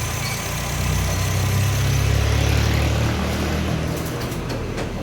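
Honda City 1.5 i-VTEC petrol four-cylinder idling cold in park, with a faint steady high-pitched whistle over the engine hum. The whistle comes from the engine bay while the cold-temperature light is on, and the owner suspects the alternator.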